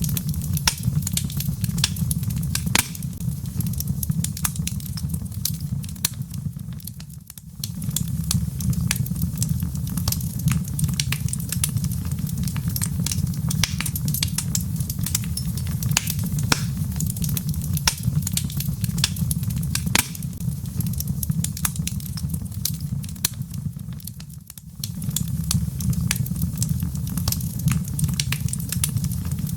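Log fire crackling in a fireplace: many sharp pops and snaps over a steady low rumble, the whole sound dipping briefly twice.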